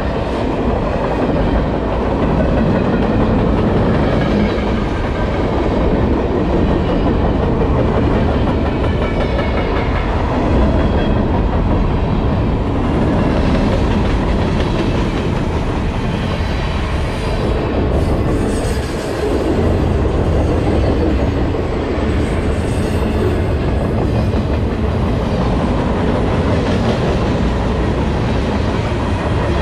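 Freight cars of a CSX manifest train rolling past close by: a steady rumble of steel wheels on the rails, with the clickety-clack of wheels over rail joints.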